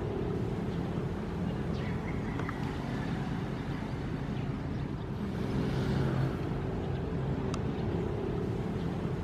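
Ocean waves: a steady low rumble of surf, with one wave swelling and washing in about six seconds in.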